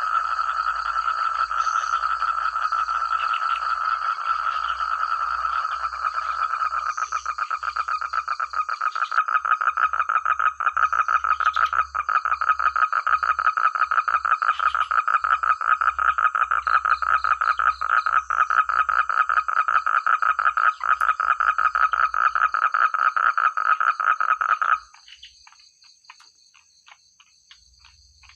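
A loud chorus of many frogs calling at once in fast, overlapping pulsed trills. It cuts off abruptly near the end, leaving only faint scattered ticking.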